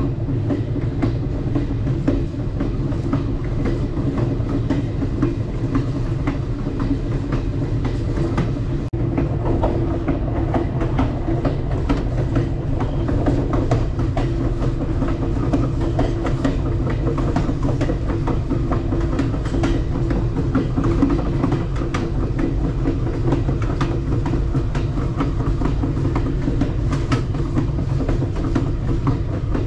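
Alaska Railroad Coastal Classic passenger train running along the track: a steady rumble of wheels on rails with faint clicks from the wheels over the rail joints.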